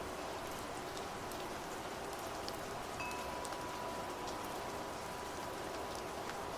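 Steady rain falling, with scattered drop ticks, and a single wind chime struck about three seconds in, its tone ringing on and slowly fading.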